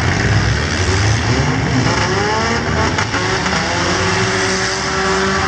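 Engines of several four-cylinder compact demolition-derby cars revving together, their pitches gliding up and down over one another.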